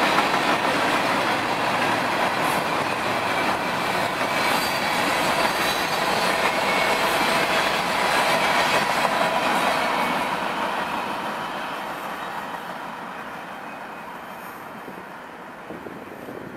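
Freight train's covered hopper cars rolling through a curve: a steady rumble of wheels on rail with a faint flange squeal. About ten seconds in it starts fading away as the end of the train moves off.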